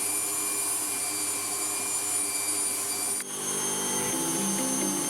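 Electric stand mixer running steadily as it beats the banana bread batter. About three seconds in, the mixer sound breaks off and background music with moving notes takes over.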